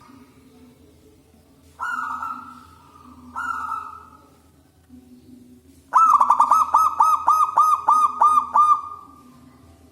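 Zebra dove (perkutut) cooing: two single drawn-out coos, then a fast run of about ten short bubbling coos, roughly three or four a second, trailing off in a held note.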